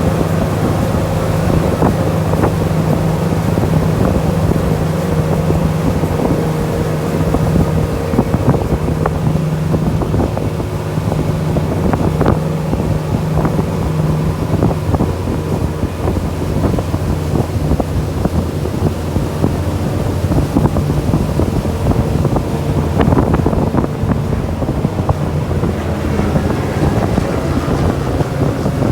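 A glass-bottom tour boat's engine running steadily under way, with wind buffeting the microphone.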